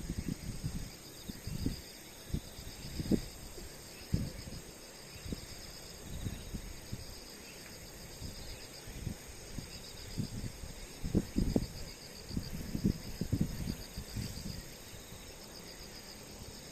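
Insects chirping steadily in rapid pulses, with scattered soft bumps and rustles, the loudest a cluster about eleven seconds in.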